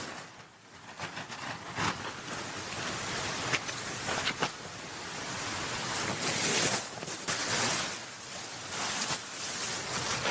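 Tent fabric rustling and crinkling as a tent is unpacked and pitched, with a few sharp clicks from its poles or fittings.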